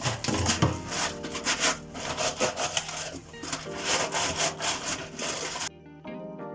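Repeated rubbing strokes of a kitchen surface being scrubbed by hand during cleaning, over faint background music. The scrubbing stops abruptly near the end, leaving only the music.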